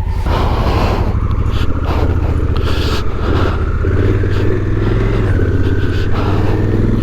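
Honda Africa Twin's parallel-twin engine running under way, its note stepping up about halfway through, with wind rushing past the rider's helmet-mounted microphone.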